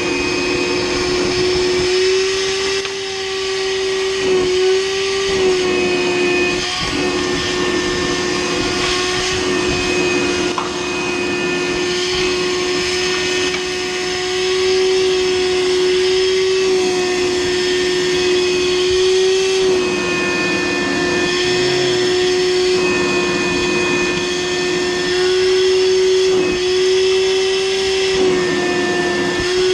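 Vacuum cleaner running steadily, sucking up dryer lint and debris, with a steady motor whine. Its pitch dips briefly a few times as the nozzle takes in material.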